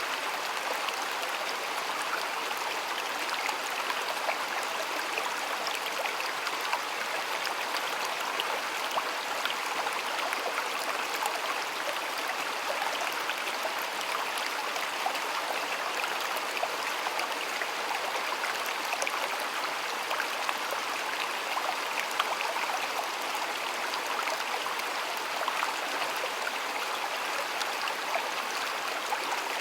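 Shallow stream water running steadily, an even rushing with fine trickling and splashing detail.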